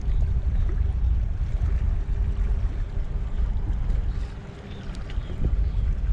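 Wind buffeting the microphone at the waterside: an uneven low rumble that eases briefly a little past the middle, with a faint steady hum underneath.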